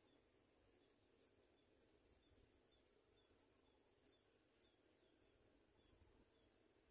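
Faint, high-pitched house sparrow cheeps, about nine short ones spaced roughly half a second apart, ending with a louder one.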